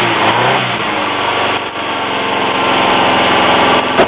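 Seat Fura's carburetted four-cylinder petrol engine running again after a long lay-up, its revs dropping back from a blip at the start and then holding a steady idle while the throttle is worked by hand at the carburettor. A sharp click near the end.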